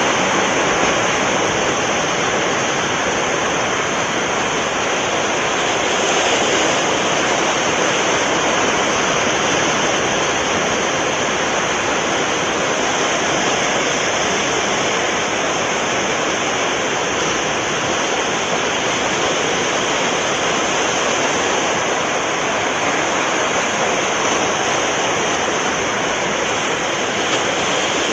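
Sea waves and surf making a steady, unbroken rush, swelling slightly now and then.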